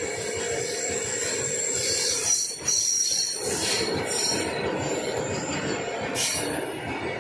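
Passing train's steel wheels squealing on the rails over the steady running rumble. The high squeal is loudest from about two seconds in.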